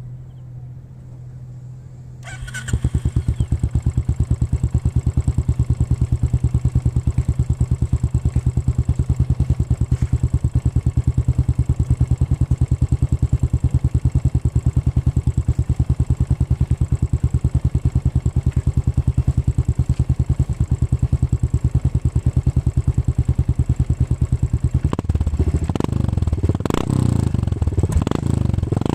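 Royal Enfield Continental GT 535's single-cylinder engine running through an aftermarket exhaust. It comes up loud about two and a half seconds in and idles with an even, fast thumping beat. It is revved up and down several times near the end.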